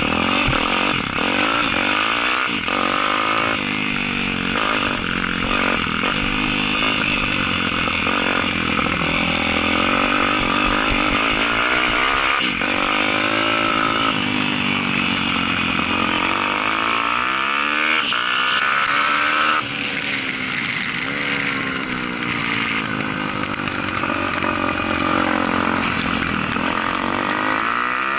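Daytona 190 four-stroke pit bike engine at race pace, its pitch rising and falling over and over as the rider accelerates, shifts and backs off through the corners.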